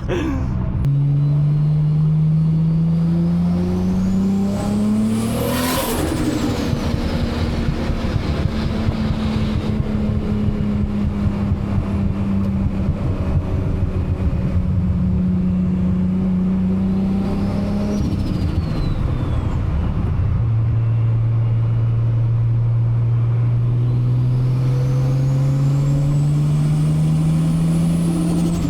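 Big-turbo Toyota Supra 2JZ-GTE straight-six under way: the engine climbs in revs for about five seconds with a high whistle rising alongside, breaks off sharply at a gear change, runs steadily, then drops about eighteen seconds in and climbs again with the whistle rising once more.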